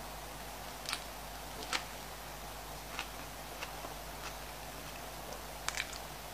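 Close-up eating sounds: chewing a soft white-bread and lettuce sandwich, heard as a few sparse, wet mouth clicks and smacks over a steady hiss, with a quick cluster of crisper clicks near the end as a fresh bite is taken.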